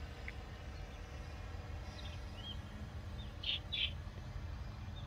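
Bird chirps: a few short, curling calls about two seconds in, then two loud, sharp chirps in quick succession about three and a half seconds in, over a steady low outdoor rumble.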